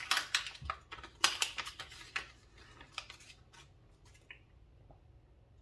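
Small packaging and parts being handled and opened by hand: a dense run of rustles and sharp clicks for about three seconds, then a few scattered clicks.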